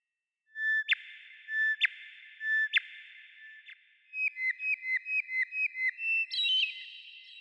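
A songbird singing: three long whistled notes, each ending in a sharp downward snap, then a quick run of about nine short chirps at about four a second, closing on a higher phrase.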